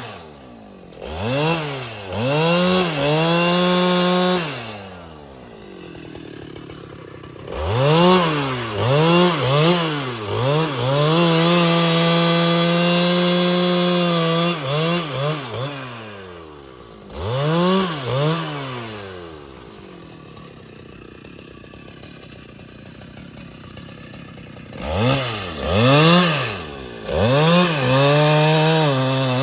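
Husqvarna 395XP two-stroke chainsaw being revved in repeated quick blips, held at high revs for several seconds, then dropping back to idle, twice settling into a low idle for a few seconds.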